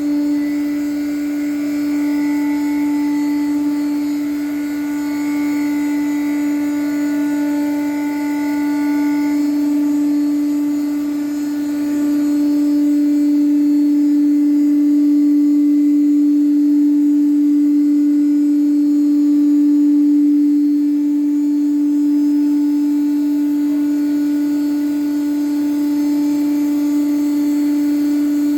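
Pouwels DEF 1000 CNC wood router running, a loud steady hum that gets a little louder about halfway through.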